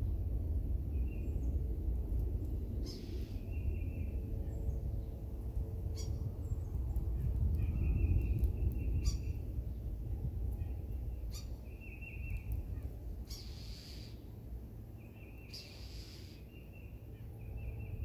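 Small songbirds calling: short high notes repeated in quick runs of several at a time, again and again, over a steady low rumble.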